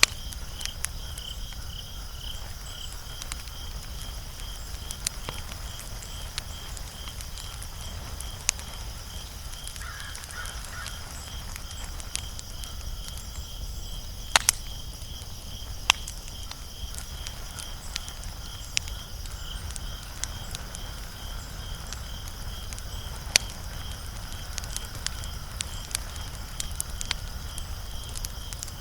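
Wood fire crackling, with scattered sharp pops; the loudest is a quick pair about halfway through. A steady high-pitched chirp pulses about three times a second behind it.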